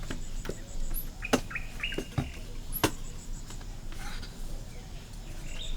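Short, high bird chirps, with a few sharp knocks a second or so apart.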